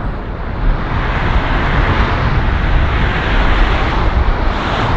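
Road traffic: a vehicle passing close by, its tyre and engine noise swelling over a couple of seconds and easing off near the end, over a low rumble of wind on the microphone.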